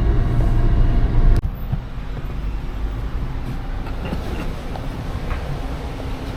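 Low, steady rumble of a moving vehicle heard from on board. It drops sharply about a second and a half in, then carries on more quietly.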